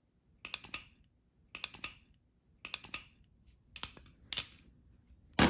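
Butterfly knife (balisong) flipped through index rollovers: quick bursts of three or four metallic clicks as the handles swing and snap against the blade, repeating about once a second, five times, the last burst the loudest.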